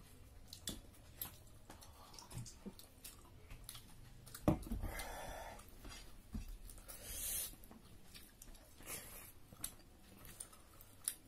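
Close-miked chewing and mouth sounds of people eating duck curry and rice with their fingers, with many small clicks; the sharpest comes about four and a half seconds in.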